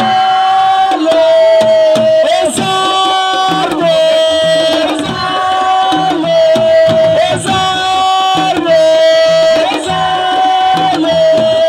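Live assiko band music: hand drums under a loud, repeating melody of long held notes.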